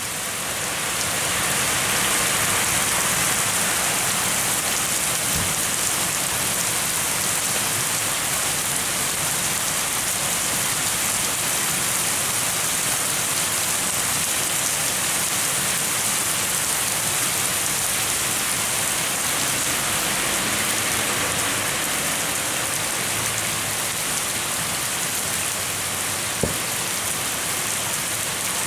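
Steady rain falling, an even hiss of drops on surfaces, with a single sharp tap near the end.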